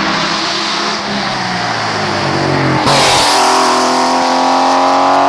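Hillclimb race car engine running hard at high revs. About three seconds in the sound changes abruptly to a louder, higher engine note that climbs slowly.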